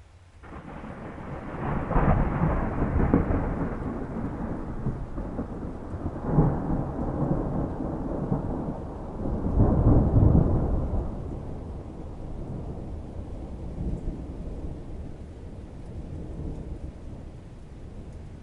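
Thunder rumbling over steady rain: the rumble builds in about half a second, swells to three loud peaks over the first ten seconds, and then dies away, leaving the rain.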